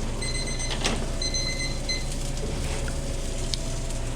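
Electronic timer beeping: two quick bursts of rapid high-pitched beeps, with a sharp click between them, over a steady low hum.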